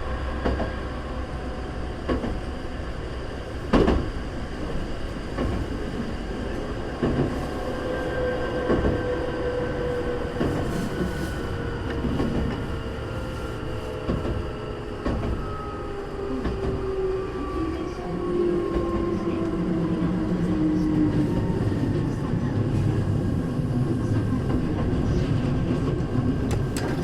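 Hankyu 3300 series electric train heard from inside the car while running. The traction motor and gear whine falls steadily in pitch as the train slows. A few sharp knocks come from the wheels crossing rail joints, and the low rumble grows heavier near the end.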